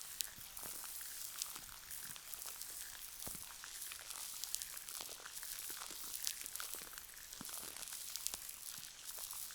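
Gel cleanser worked between the hands: dense, sticky, wet crackles and small clicks, over a soft hiss of layered rain.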